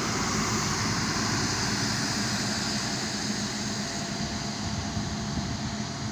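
Truck on the move: a steady engine drone under road and wind noise.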